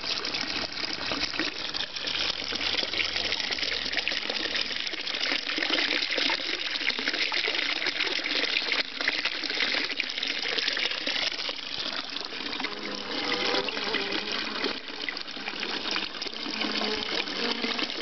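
Small garden-pond waterfall, water pouring and splashing steadily into the pond.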